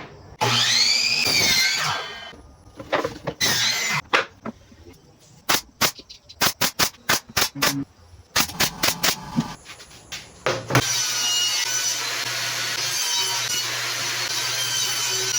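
Power-tool work: a whining tool that rises and falls in pitch near the start, a quick run of sharp clicks or taps mid-way, then a power tool running steadily with a low hum from about eleven seconds in.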